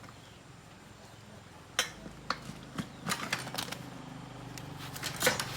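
Metal hand tools clinking and tapping on metal parts in a handful of sharp, irregular strikes, starting about two seconds in, over a faint steady hum.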